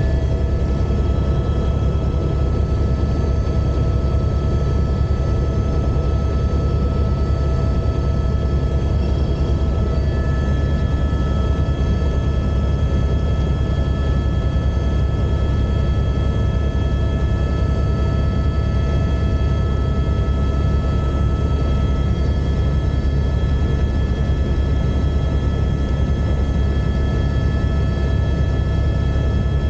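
Helicopter in flight: a steady, loud low drone with several constant high whining tones over it, which hold unchanged throughout.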